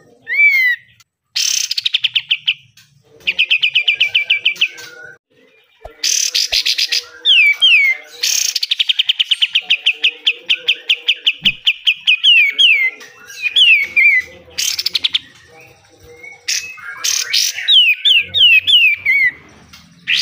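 Kapas tembak (black-winged flycatcher-shrike) singing in loud bouts of very fast repeated notes, each trill several seconds long, broken by short pauses and sharp downslurred whistles.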